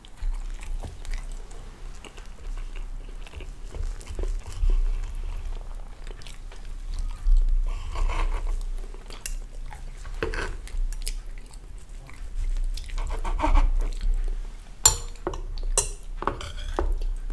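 Close-up eating sounds: chewing of soft pancake, with a knife and fork clicking and scraping through the pancakes onto a wooden board, and a few sharper clicks near the end.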